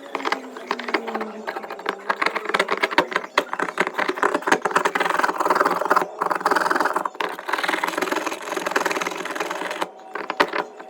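Small electric power tool working on the blades of rusty steel scissors, its motor running under a dense scraping noise with many rapid clicks and rattles. The motor's pitch drops slightly in the first second or so.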